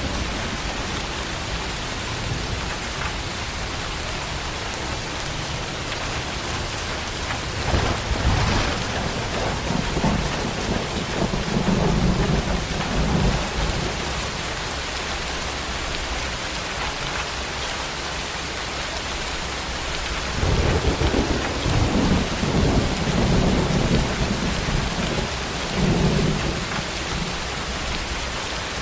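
Steady tropical downpour with rolling thunder, several low rumbles rising and fading over the rain; the longest rolls come near the middle and about three quarters through.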